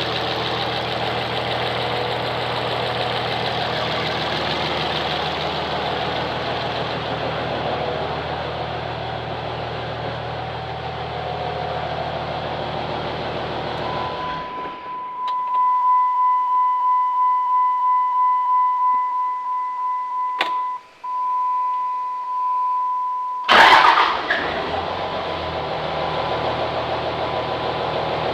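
A 5.9 L common-rail Cummins diesel idling steadily, now running after an injector replacement cured its crank-no-start. About halfway through, the engine sound stops abruptly and a steady high-pitched beep holds for about nine seconds. A short loud burst follows, and then the idle comes back.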